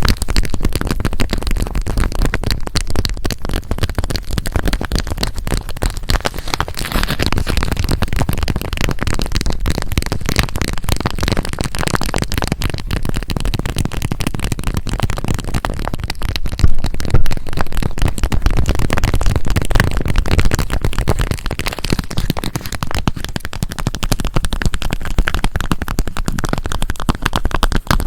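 Cat paw squishy being squeezed and handled inside its unopened plastic package, giving a dense, continuous crinkling and crackling of the wrapper. There are a couple of louder crackles a little past halfway.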